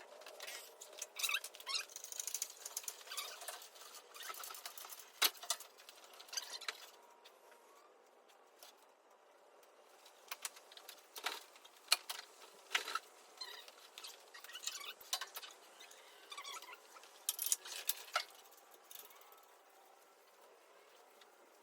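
Scattered clicks, clinks and short rattles of hand tools on metal, busiest in the first seven seconds and again from about ten seconds in.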